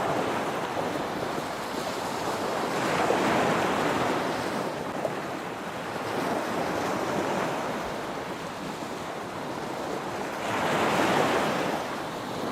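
Wind blowing in gusts, a rushing noise that swells about three seconds in and again near the end.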